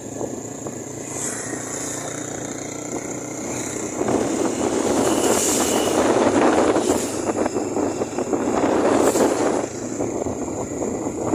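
Road vehicle noise: a rushing sound that builds about four seconds in and eases off near the end, with a steady high-pitched tone throughout.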